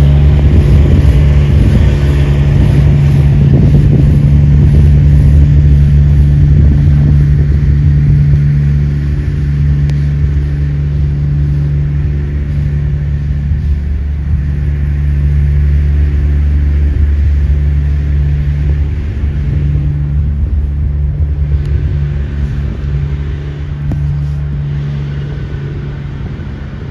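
A motor vehicle's engine running at a steady, low, even pitch, gradually getting quieter over the second half.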